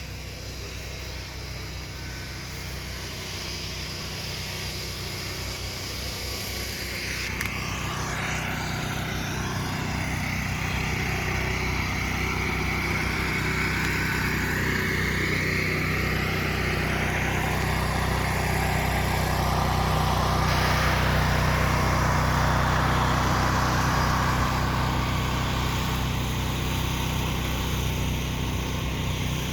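Vehicle engine running steadily, the sound building gradually over about twenty seconds before easing slightly near the end.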